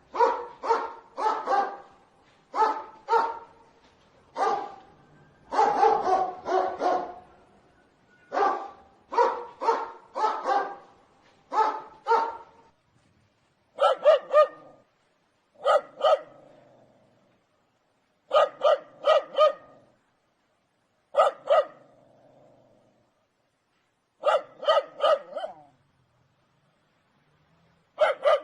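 Dog barking repeatedly, in quick runs with short gaps; from about halfway the barks come in spaced groups of two to four.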